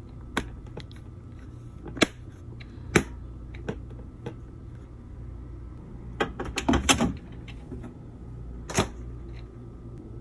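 A utensil knocking and clicking against a glass storage container as mayonnaise is scraped into it: sharp separate knocks, with a quick run of them a bit past the middle, over a steady low hum.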